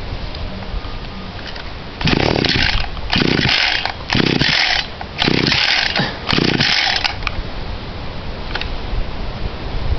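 Five pulls on the recoil starter of a Victa Tornado Plus 26cc two-stroke petrol line trimmer, about one a second, each a short whir of the cord spinning the engine over. This is a cold start on choke, and the engine does not catch.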